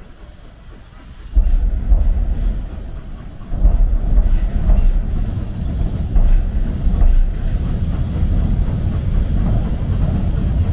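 A heritage railway train running close by: a heavy low rumble of wheels on the rails starts suddenly about a second and a half in, eases briefly, then carries on loud and steady.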